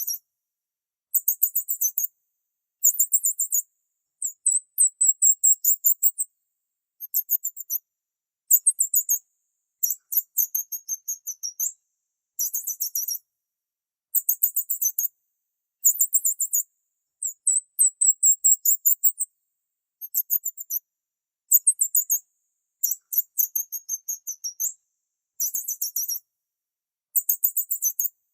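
Birds chirping: rapid, very high-pitched trills in bouts of about a second, repeating every one to two seconds with dead silence in between.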